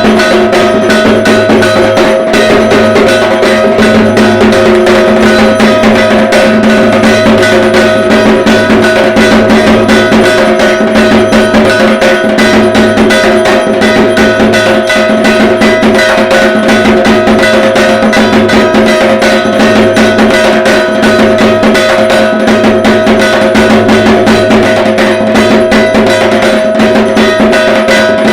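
Dhak drums beaten in a fast, unbroken rhythm, with a ringing metal percussion instrument struck along throughout.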